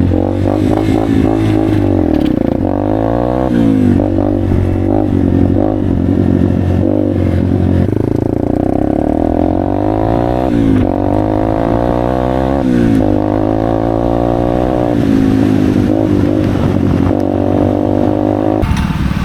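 Several motorcycle and vehicle engines running at once, their pitches rising and falling and crossing one another as they speed up and slow down. The higher-pitched part cuts off sharply near the end.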